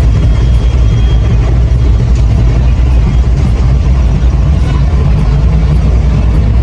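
A large engine running steadily with a deep low rumble.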